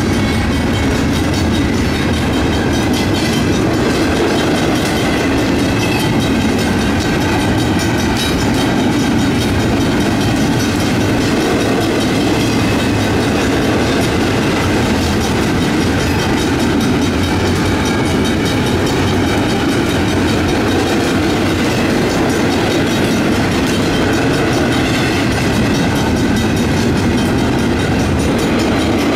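Union Pacific double-stack intermodal freight cars rolling past a grade crossing at steady speed: a loud, even rumble of steel wheels on rail with clickety-clack over the joints. A Griswold mechanical crossing bell rings underneath.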